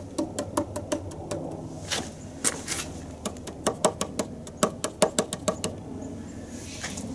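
An irregular run of light, sharp knocks and clicks from hand work on wood and tools, thickest from about three to six seconds in.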